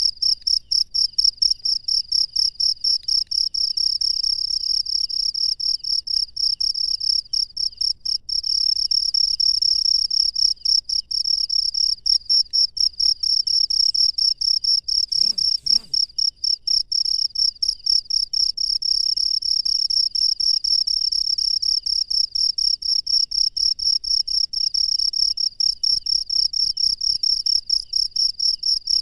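Crickets chirping at night: a steady, high-pitched run of rapid, evenly spaced pulses, with a fainter second insect chirping lower in pitch.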